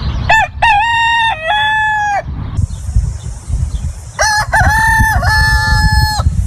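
Rooster crowing twice, each crow lasting about two seconds, over a steady low rumble of background noise.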